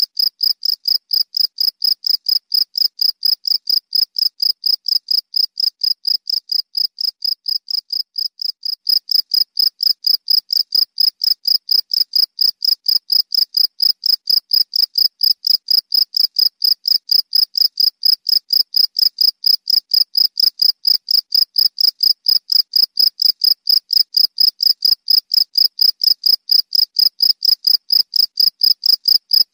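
Cricket chirping: a steady, evenly spaced train of high-pitched chirps, several a second, a little louder from about nine seconds in.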